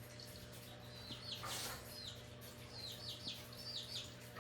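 A small bird chirping faintly and repeatedly, short high notes often in pairs every second or so. There is a brief rustle about a second and a half in, over a faint steady hum.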